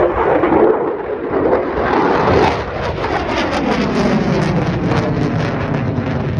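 Jet aircraft flying past in an airshow display: a loud engine roar whose pitch falls as it goes by.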